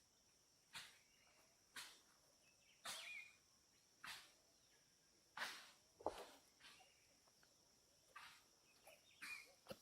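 Footsteps on the rainforest floor, about one step a second, over a faint steady high-pitched insect drone. Two brief high chirps sound, about three seconds in and near the end.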